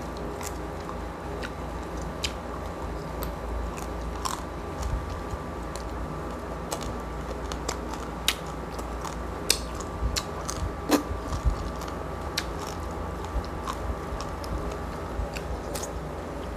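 Close-up chewing and biting of crispy roast pig's-head skin (lechon), with irregular sharp crunches and crackles.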